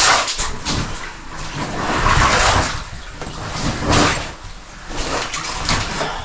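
Scraping and shuffling of a person crawling through a low cave passage, in uneven swells of rough rubbing noise as body, clothing and gear drag over rock.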